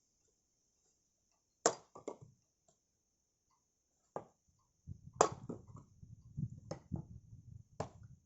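Firewood for a fireplace being worked: a series of sharp, irregularly spaced wooden knocks and cracks, starting a couple of seconds in. A low rumbling noise runs under the knocks in the second half.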